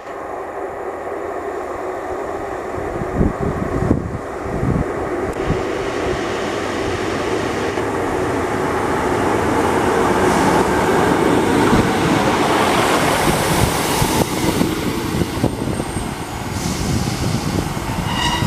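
Class 153 single-car diesel railcar running through a station, its diesel engine and wheels on the rail growing louder to a peak just past the middle and then easing off as it moves away.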